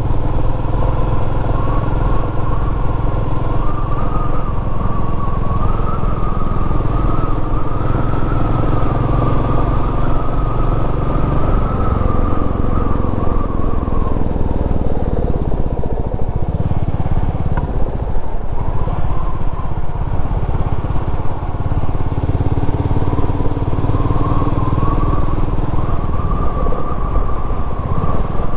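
Royal Enfield Meteor 350's single-cylinder engine running steadily on the road, the note easing off for several seconds around halfway through, then picking up again.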